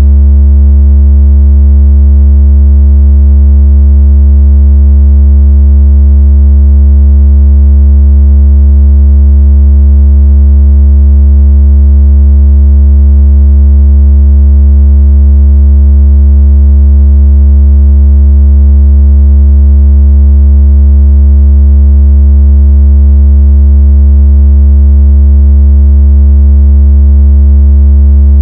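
A steady, very loud, deep electronic tone with a buzzy stack of overtones: a synthesized water-ejection and bass-test tone made to shake water out of a phone speaker and mimic strong phone vibration.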